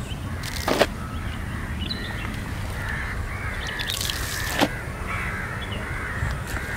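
Birds calling again and again in the background, over a steady low rumble. Two short sharp sounds break through, one about a second in and one about four and a half seconds in.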